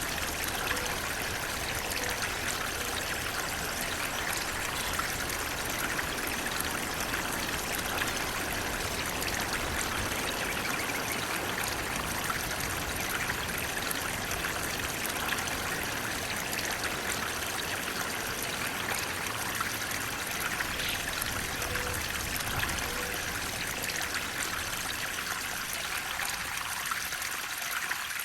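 Flowing water running steadily, an unbroken rushing splash with no change in level.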